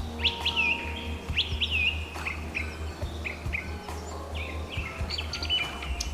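Small birds chirping: a quick series of short, sharp notes that rise and then drop, about two a second, over a steady low hum.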